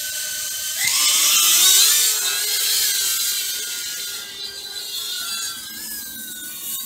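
Blade Inductrix 200 quadcopter's motors whining at idle, then throttled up about a second in with a jump in pitch. The several motor tones waver up and down as it flies, easing slightly in loudness.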